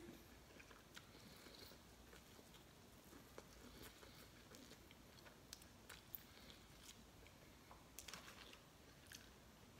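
Faint, quiet chewing and wet mouth clicks from eating a bone-in chicken wing by hand, with a brief paper rustle about eight seconds in.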